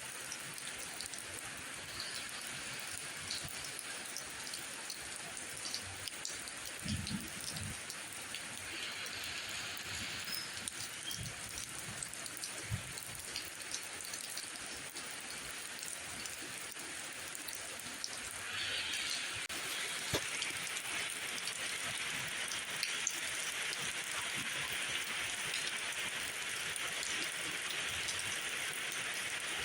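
Steady rain falling, with many single drops ticking through it and a few soft low thuds about a quarter of the way in. The rain gets heavier and louder about two-thirds of the way through.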